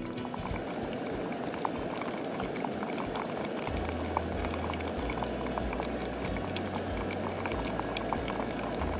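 Liquid bubbling hard in a cooking pot, a steady seething with many small crackling pops.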